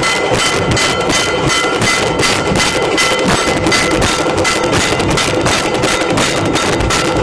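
Nashik dhol drums playing a fast, steady beat of about five strokes a second, with steady ringing tones above the drumming.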